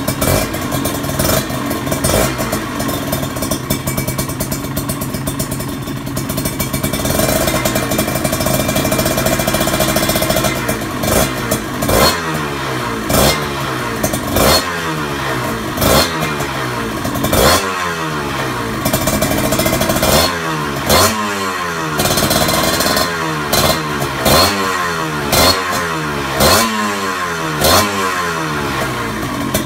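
Kawasaki Ninja 150 single-cylinder two-stroke engine breathing through an aftermarket racing exhaust (knalpot racing), idling steadily, then revved in a string of quick throttle blips about every one to two seconds, the revs falling back after each one.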